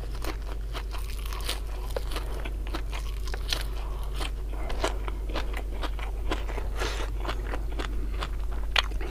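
Close-up crunching and chewing of raw green vegetable stalks, many short crisp crunches in an uneven run, over a steady low hum.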